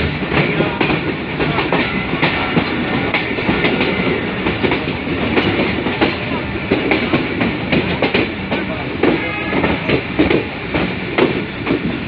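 Passenger train running at speed, heard from on board: wheels clattering over the rail joints and the coach rattling, with a steady rumble underneath.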